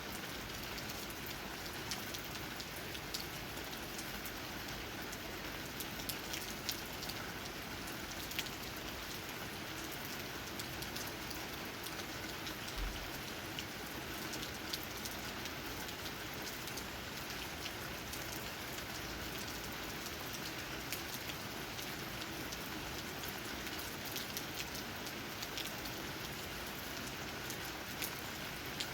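Steady rain, with raindrops tapping on leaves: many small separate drop ticks over an even hiss.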